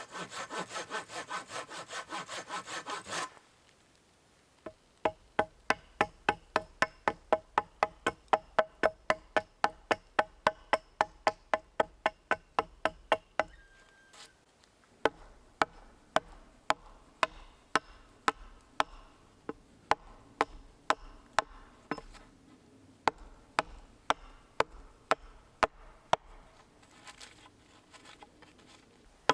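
Hand saw cutting through wood in quick strokes for about three seconds. After a short pause comes a long run of sharp, evenly spaced taps, about three a second, with brief breaks between runs.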